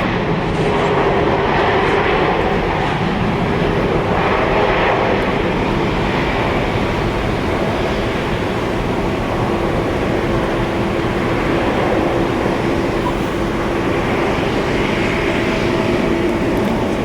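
Jet airliner engines running: a loud, steady noise with a few faint steady tones over it.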